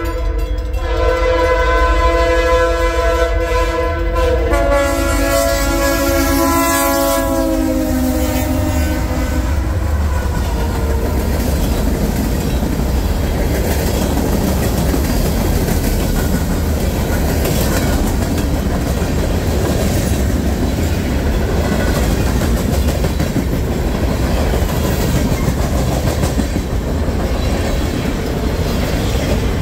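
Norfolk Southern freight train passing close by, its diesel locomotive's multi-chime air horn sounding and dropping in pitch about four and a half seconds in as the engine goes past. The horn stops about nine seconds in, and the freight cars keep rolling by with a steady rumble and clickety-clack of wheels on rail joints.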